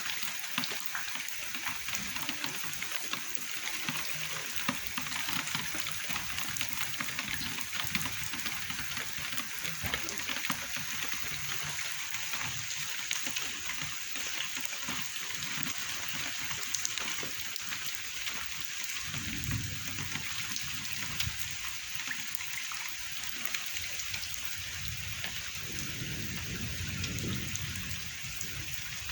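Steady rain falling, many individual drops ticking on a surface. Twice, about two-thirds of the way in and near the end, a faint low rumble rises under it for a couple of seconds.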